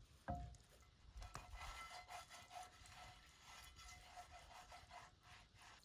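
Near silence: a faint knock shortly after the start, then a faint steady whine for a few seconds.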